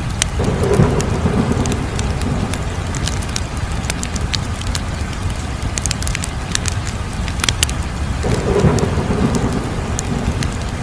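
Wood fire crackling, with many sharp pops and snaps over a steady low rumble. A deeper swell rises and fades twice, about a second in and again near the end.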